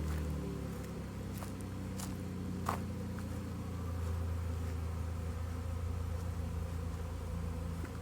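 A honeybee swarm flying close around the microphone: a dense, steady low buzz from many bees at once.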